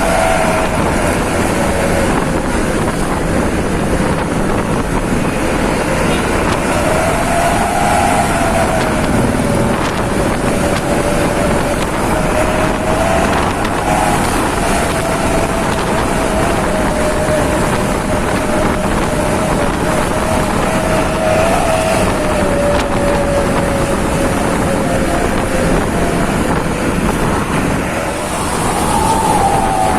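Vehicle engine running on the move, its note rising and falling slowly with changes in engine speed, with wind noise on the microphone.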